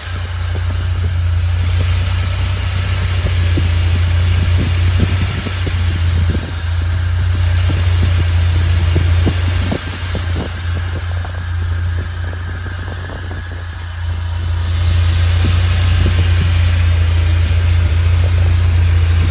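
UAZ Farmer truck engine idling steadily with a low, even hum, growing a little louder about fourteen seconds in.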